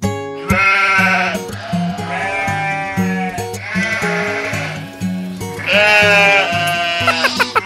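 Sheep bleating, about four long wavering bleats, over background music with a steady bass line. A quick run of clicks near the end.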